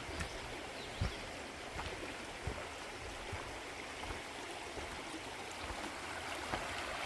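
Shallow forest creek flowing steadily over rocks, with a few soft low thumps.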